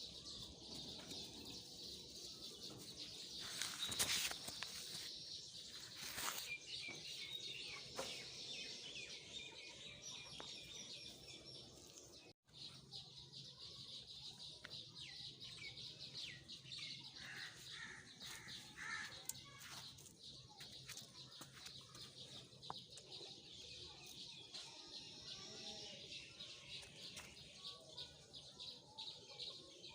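Faint chorus of small birds chirping continuously, with a few short knocks about four and six seconds in, and a momentary dropout partway through.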